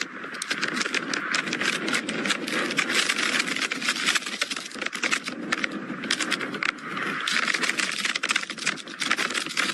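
Strong wind blowing, with a dense, rapid rattling and flapping of loose things caught in it. It eases briefly about five seconds in and picks up again near seven seconds.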